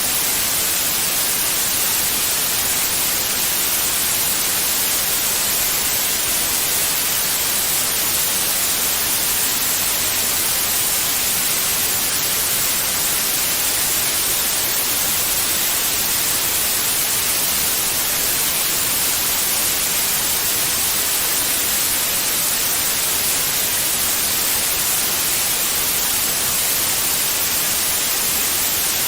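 Steady white noise, an even hiss with most of its energy in the high frequencies and no change in level, played as a soothing sound for newborn babies.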